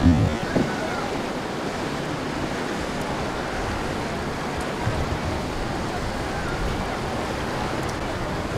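Steady rush of surf and wind at an ocean inlet, with wind buffeting the microphone. There are a couple of low thumps right at the start and another about five seconds in.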